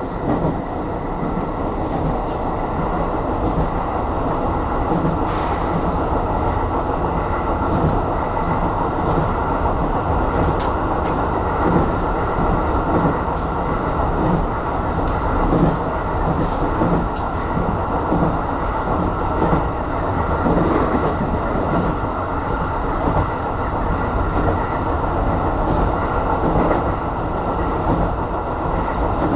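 Aonami Line electric commuter train running between stations, a steady rumble of wheels on rail heard from inside the front car.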